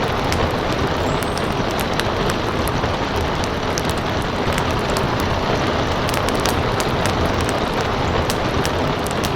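Steady rain hiss with a wood fire crackling over it, sharp irregular pops scattered throughout.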